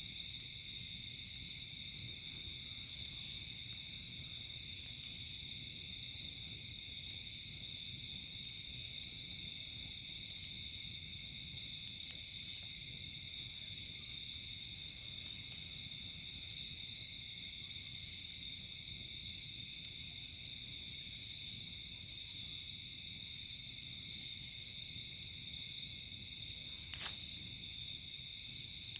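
Steady chorus of night insects, a continuous high-pitched trilling, with a higher buzzing that swells up every six to seven seconds. A few isolated sharp pops from the campfire cut through it, one about twelve seconds in and another near the end.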